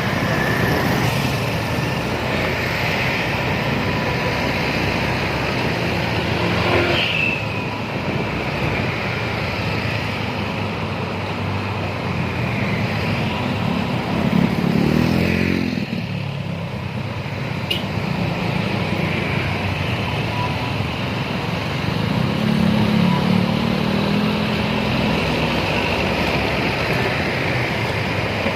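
Steady road traffic noise, with passing vehicles growing louder about halfway through and again later.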